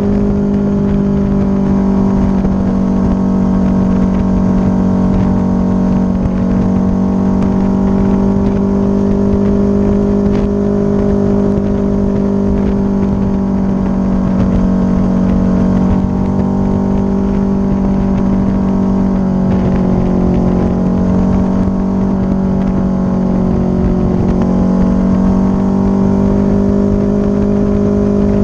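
Motorcycle engine running steadily at cruising speed over a constant rush of wind noise. The engine pitch sags briefly about twenty seconds in, then comes back up.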